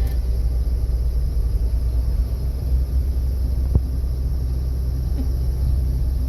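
Tractor engine running steadily under way on the road, a deep low rumble, with one faint tick partway through.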